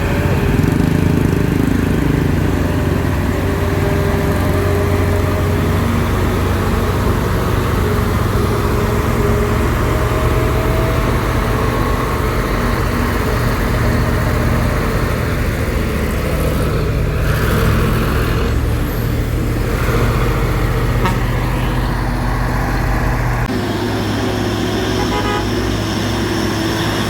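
Heavy truck's diesel engine running under load as it climbs, a steady low drone whose note changes abruptly near the end.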